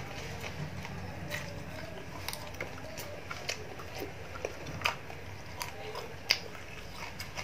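Close-up eating sounds: a person chewing fried fish, with scattered sharp crunches and clicks about every half second, the loudest about five and six seconds in.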